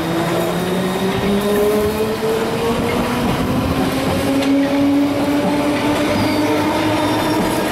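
London Underground D Stock train pulling away, its traction motors giving a whine that rises steadily in pitch as it gathers speed, over the rumble of its wheels on the rails.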